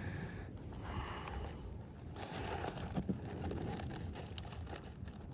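Faint scraping and handling of asphalt shingles, over a low rumble of wind on the microphone.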